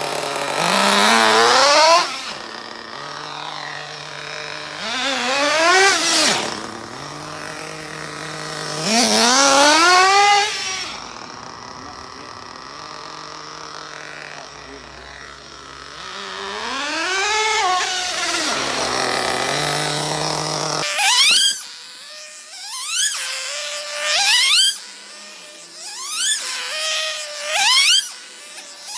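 Two-stroke O.S. Max .30 VG nitro engine in a 1/8-scale RC buggy revving hard in bursts of about two seconds, dropping back to idle between them: the short full-throttle passes of engine break-in. Near the end the revs come in quicker, shorter blips.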